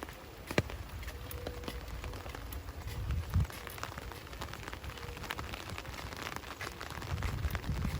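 Steady rain falling, with many single drops ticking close by and a sharp tick about half a second in. Low rumbles swell up around the middle and again near the end.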